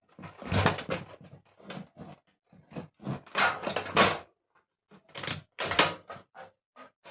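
Parts of a plastic room heater being handled and fitted into the housing: a series of irregular knocks, clunks and scrapes.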